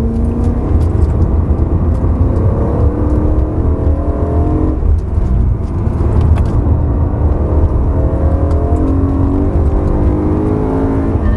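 BMW M3's V8 engine accelerating hard, heard from inside the cabin: the revs climb, drop once with an upshift a little before halfway, then climb again. A heavy low rumble runs underneath.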